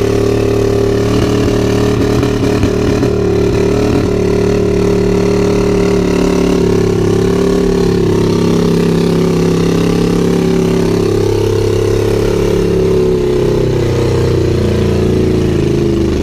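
A pickup truck engine held at steady high revs, its pitch easing down slightly near the end.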